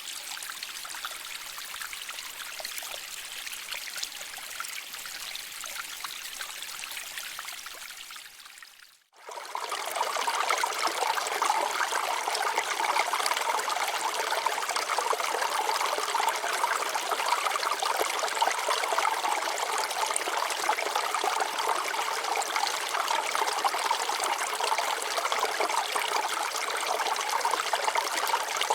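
Water flowing over rocks, a steady trickling rush. About nine seconds in it fades out briefly, then comes back louder and fuller.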